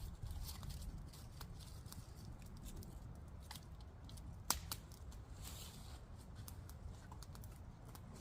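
Freshly lit campfire of pine kindling and sticks crackling, with scattered sharp snaps, the loudest about four and a half seconds in, over a low rumble.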